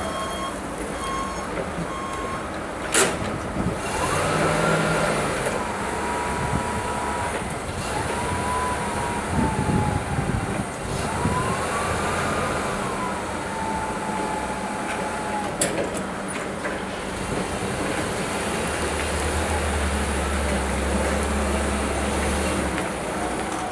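Hyster H2.0FTS LPG forklift running, with short reversing beeps for the first second or so. A whine rises and falls several times over the first half as the truck is worked. Two sharp clicks stand out, and a low hum sets in near the end.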